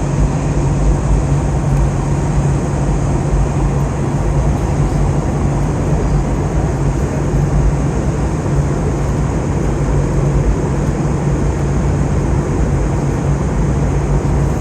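Airliner cabin noise in flight: the steady drone of the jet engines and rushing airflow, with a constant low hum underneath.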